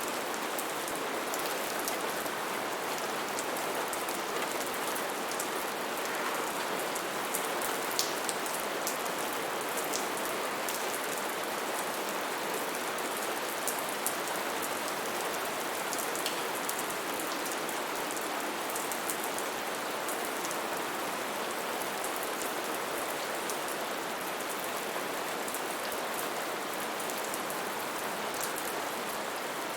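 Steady rain falling, with individual drops ticking sharply now and then above the even hiss.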